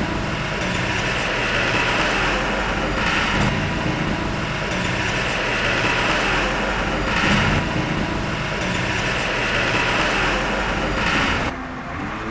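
Heavy diesel earthmoving machinery running steadily, swelling about every four seconds. Near the end the sound drops suddenly and goes quieter and duller.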